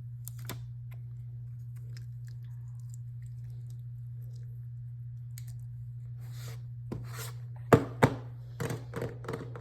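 Small items being handled and set down, with scattered light clicks and two sharp knocks close together near the end, over a steady low hum.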